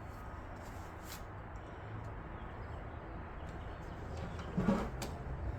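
Handling noise as a graphics card is fitted into a PC case: a few faint clicks and one louder short knock about four and a half seconds in, over a low steady hum.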